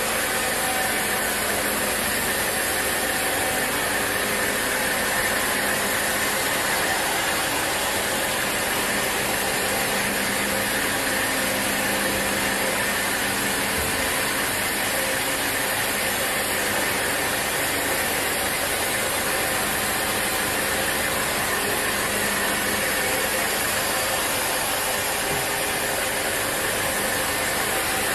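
Sawmill machinery running steadily, a dense, even mechanical noise with a faint steady hum that does not change.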